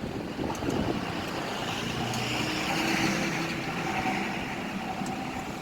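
A motor vehicle running, a steady engine and road noise with a faint steady hum that swells slightly in the middle.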